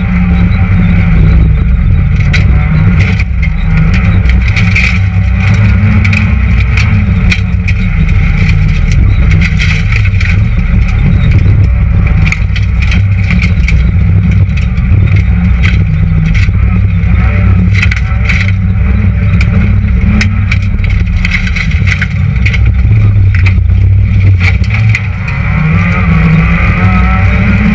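Citroën Saxo VTS rally car's four-cylinder engine, heard from inside the cabin, revving hard and falling away again and again through gear changes on a special stage. Many sharp clicks and knocks run over it.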